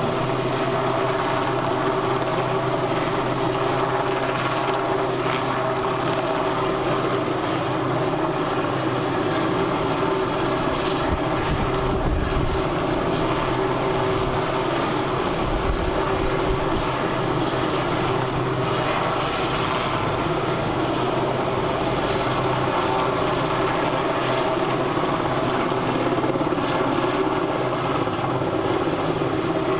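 RAF search-and-rescue helicopter running steadily, its engine and rotor drone holding an even pitch and level throughout.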